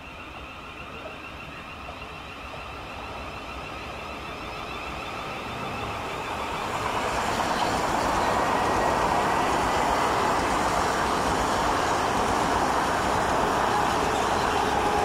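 Electric multiple-unit trains running in through the station below. The rumble grows over about seven seconds and then holds steady, with a thin whine on top.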